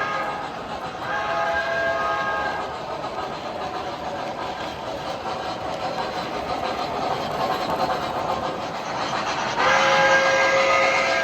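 O gauge model train running on three-rail track, its onboard sound system sounding a multi-tone train signal about a second in for a second and a half, then a steady rolling rumble, then a louder signal starting near the end.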